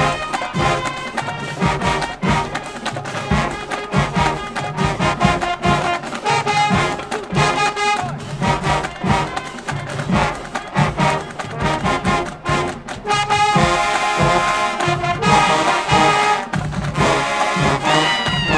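High school marching band playing, brass leading, building to a fuller, slightly louder passage about two-thirds of the way through.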